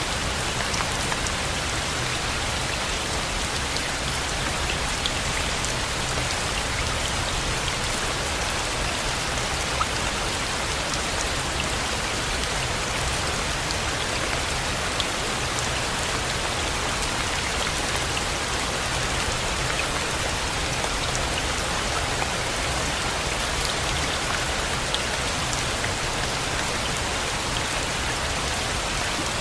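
Steady rain, a dense even hiss with scattered individual drops ticking on a surface, over a low rumble.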